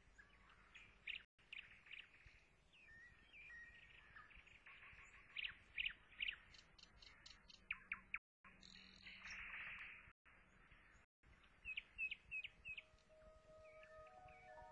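Faint birdsong: small birds chirping and whistling in short, scattered phrases. Music begins to fade in near the end.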